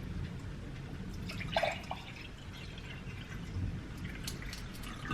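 A still, non-fizzy watermelon drink poured into a glass: a faint trickle with a short gurgle about one and a half seconds in.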